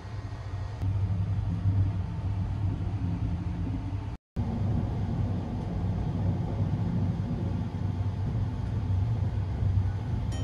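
Running noise of the Sunrise Express sleeper train heard inside a compartment: a steady low rumble, briefly cut off about four seconds in.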